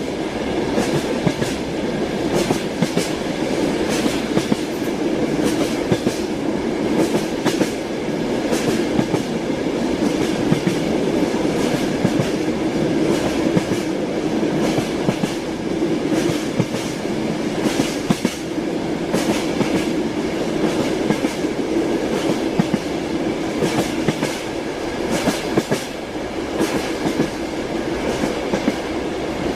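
Moving train's wheels clattering over the rails: a steady rumble with frequent, irregular clicks and knocks.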